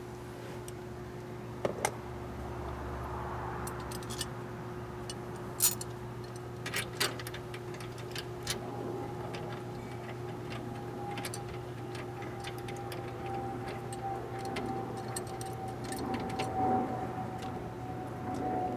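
Scattered sharp clicks and light rattles of hand tools and door trim parts being handled, over a steady low hum.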